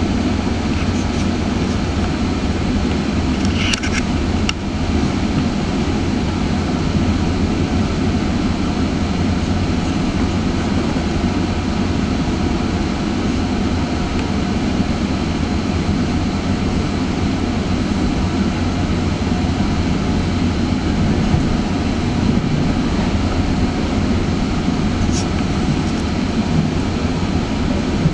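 Steady rumble of a GO Transit passenger train in motion, heard from inside the coach: wheel and track noise. Two short high squeaks, about four seconds in and a few seconds before the end.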